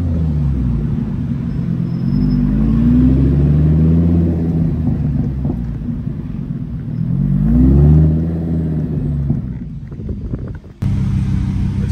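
McLaren 570S's twin-turbo V8 under acceleration: its pitch climbs and falls twice, loudest the second time. It then dies away and the sound cuts off abruptly near the end.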